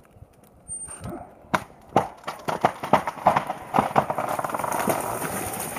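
Maple tree being felled: sharp cracks of wood snapping, coming faster and thicker as the trunk gives way and goes over.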